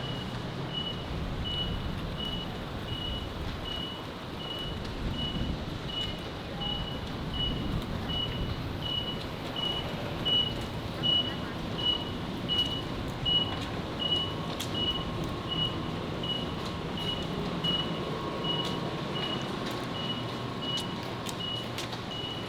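A high electronic beep repeating evenly, a little over two times a second, over steady city traffic noise.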